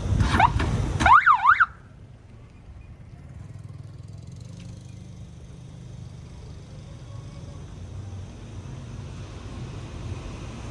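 A short electronic siren warbling fast, its pitch swinging up and down several times a second, cuts off suddenly about a second and a half in. A quieter, steady low engine rumble follows.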